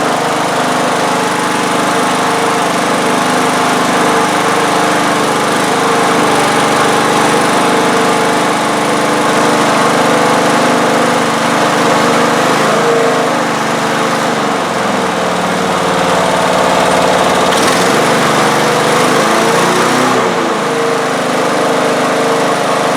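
Small primer-bulb lawn mower engine running steadily, freshly revived after its water-filled gas tank was dealt with and a plugged fuel tube cleared. Its speed dips and picks back up a few times in the second half.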